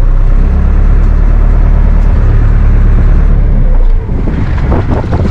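Dive boat's engine running with a loud, steady low rumble, dropping away suddenly about four seconds in.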